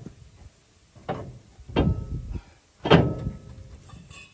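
Three heavy blows on metal, about a second apart, the last the loudest, each leaving a short metallic ring. They come as a part is being knocked loose and worked out of the truck's front leaf-spring assembly.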